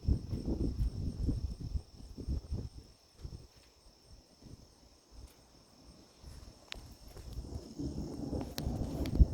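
Thunder rumbling low and unevenly, dying away about three seconds in and building again near the end, over a steady high hum of insects.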